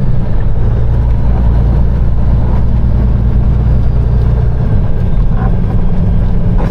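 Peterbilt 389 semi truck's diesel engine running steadily under way, heard from inside the cab as a low drone over road noise.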